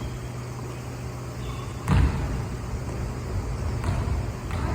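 Steady low hum with a single heavy thump about two seconds in and a lighter knock near the end.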